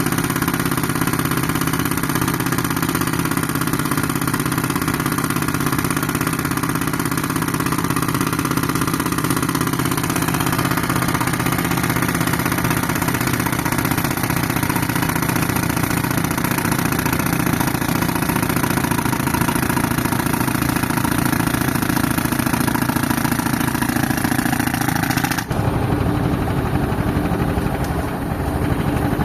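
Tractor engine running steadily while it drives an air compressor for concrete breaking. About 25 seconds in the sound turns abruptly duller.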